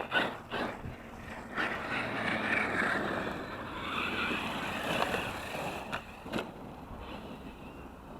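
Electric RC monster truck driving, its motor whining up and down in pitch with the throttle over a noisy running haze. There are several sharp knocks near the start, another about a second and a half in, and two more around six seconds, after which it grows quieter.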